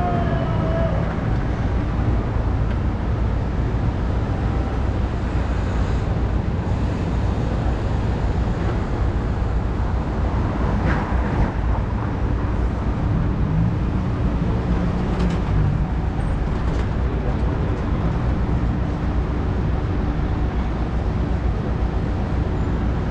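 City road traffic noise heard from a moving bicycle: a steady low rumble of passing cars and buses with no breaks.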